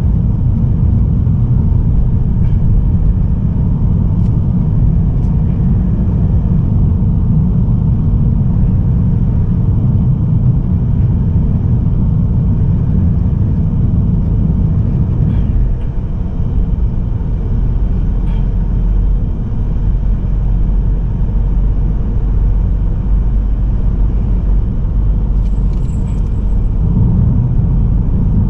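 Mazda3 sedan with a Skyactiv-D 1.8 diesel cruising at road speed: a steady, loud low rumble of tyres, road and engine, with a brief dip in level about sixteen seconds in.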